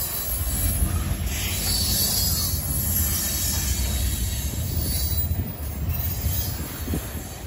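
Freight train of covered hopper cars rolling past, a steady low rumble of steel wheels on rail. A higher hissing wheel noise swells for a couple of seconds about a second in, and again briefly near the end.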